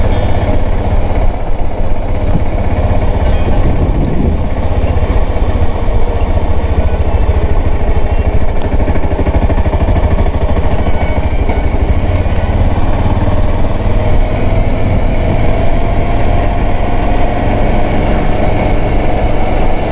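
Voge 650DS motorcycle's parallel-twin engine running steadily under way, with the rush of riding noise; the engine note rises slowly over the last few seconds.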